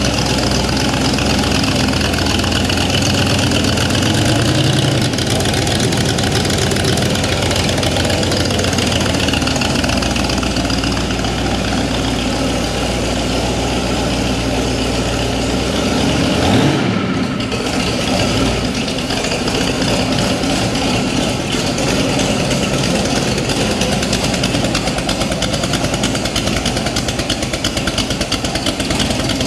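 Car engine idling steadily, with a brief rising note and a short break in the sound a little past halfway.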